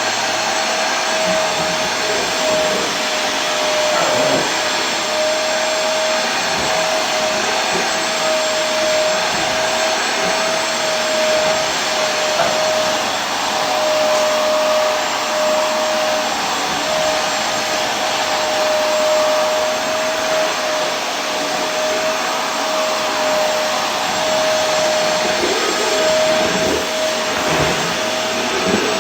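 Vacuum cleaner running steadily: a constant rushing hiss with a steady whine from the motor.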